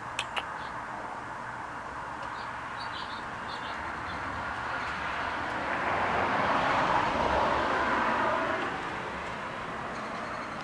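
A passing vehicle: a steady noise that swells over several seconds to a peak and fades again. A few faint bird chirps about a second in, and two sharp clicks at the very start.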